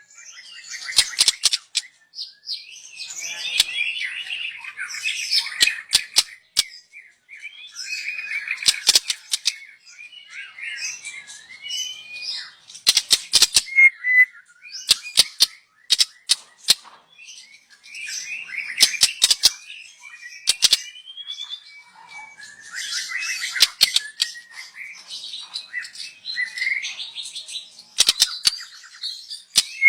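Young white-rumped shama singing: bursts of varied whistled and chattering phrases a few seconds long, broken by sharp clicking notes, with short pauses between bursts.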